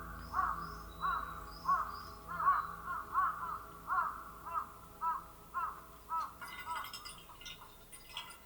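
A crow cawing in a long run of short calls, about two a second, fading out after about six seconds.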